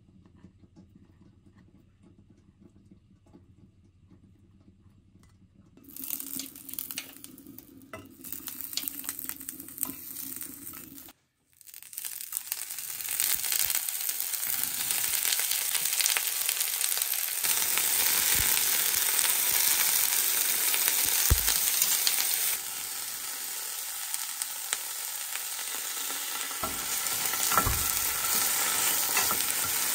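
Gyoza, broccoli, cocktail sausages and bell pepper rings sizzling in oil in a divided frying pan, with a few taps of chopsticks turning them. The sizzle starts about twelve seconds in, after quieter kitchen sounds from chopping on a cutting board.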